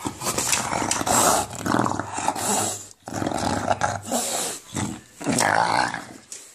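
An English bulldog growling in play, a rough, gravelly 'monster sound', in three long stretches broken by short pauses.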